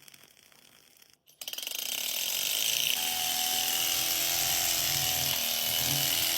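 Small model Stirling engine running: a steady, fast mechanical clatter of its moving parts that starts about a second and a half in and keeps an even pace.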